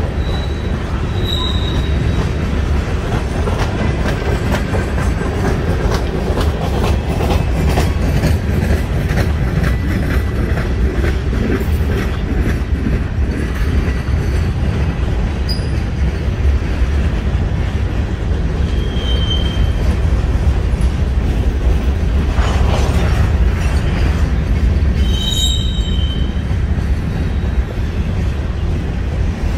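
Freight train of tank cars and covered hoppers rolling past: a steady low rumble of steel wheels on rail with faint clicking over the rail joints. A few brief high wheel squeals come at the start, about two-thirds through, and near the end.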